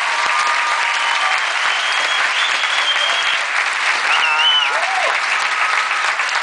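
Audience applauding steadily, with whistles and a short cheering shout about four seconds in.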